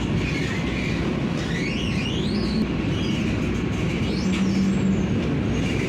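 Vande Bharat electric train running on the rails, a steady low rumble with faint high tones rising and falling above it, as the train changes tracks onto another line.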